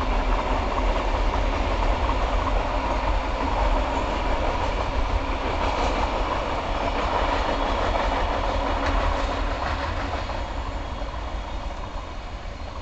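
Empty container wagons of a freight train rolling past on the track, wheels clicking over the rail joints. The sound fades as the last wagon goes by near the end.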